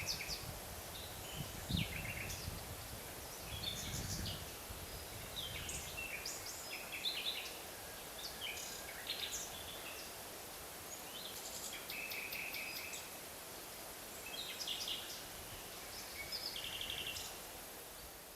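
Songbirds chirping and trilling, short calls repeating every second or two, over a steady faint hiss of forest background. A low rumble sits under them in the first few seconds, and the whole sound fades away near the end.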